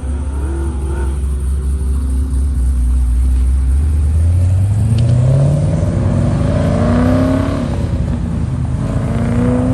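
Car engine rumbling at low revs, then accelerating hard about four seconds in, its pitch climbing steadily. It drops briefly as it shifts and climbs again near the end.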